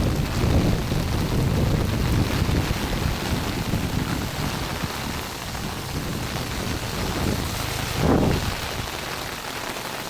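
Steady rain falling and pattering on surfaces. A low rumble under it in the first few seconds fades away, and a brief low swell comes about eight seconds in.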